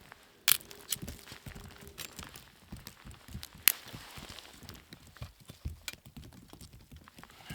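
Footsteps crunching through deep snow, with a few sharp clicks, the loudest about half a second in and at just under four seconds.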